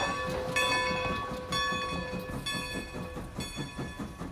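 Cartoon train sound effect: wheels clacking in a quick, steady rhythm, with a ringing tone that repeats about once a second, slowly fading.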